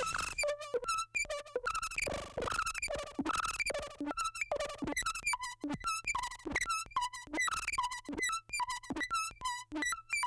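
Moog Labyrinth semi-modular synthesizer playing its Pseudo Noise Delay patch: a fast, irregular run of short blipping notes at jumping pitches.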